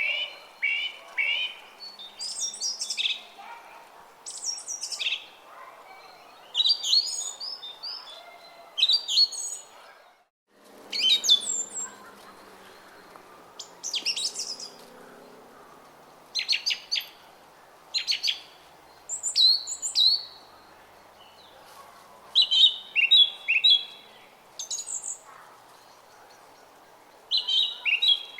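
Small songbirds chirping and singing in short repeated phrases over the steady babble of a flowing brook. The sound cuts out for an instant about ten seconds in.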